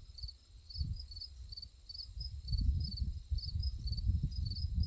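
Crickets chirping steadily in short, evenly repeated high chirps, about two or three a second. Under them, a low rumble grows louder from about halfway through.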